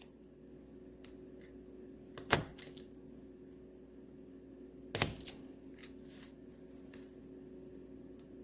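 Knife chopping through a block of wax melt, with a few sharp clacks on the cutting surface. The loudest cluster comes about two seconds in and another pair about five seconds in, over a faint steady hum.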